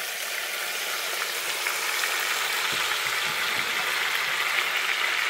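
Meat frying in a hot clay cazuela over a wood fire, a steady sizzle that grows slightly louder. The pot is hot and cooking well.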